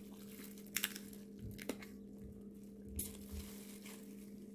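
Quiet eating and food handling: a few soft clicks and crinkles with low bumps, over a steady low hum.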